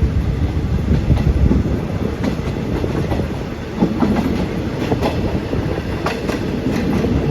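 Train 167's wheels running on the track: a steady low rumble with irregular sharp clacks as the wheels cross rail joints, several close together in the second half.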